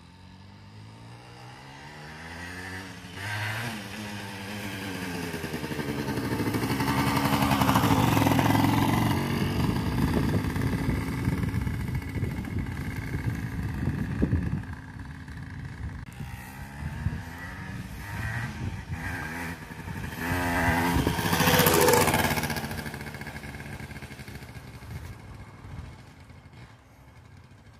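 1978 Yamaha DT 175's single-cylinder two-stroke engine, freshly overhauled and being run in, heard as the bike is ridden about, with the revs rising and falling repeatedly. It grows louder to a peak about a third of the way in, eases off, comes close again past two-thirds, then fades into the distance.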